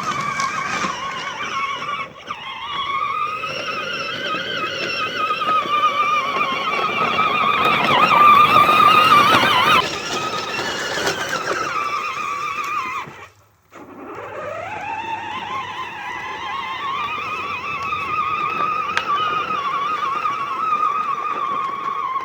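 Kids' four-wheeler running, its motor giving a steady high whine. Past the middle it cuts out suddenly, then winds back up with a rising whine and runs steadily again.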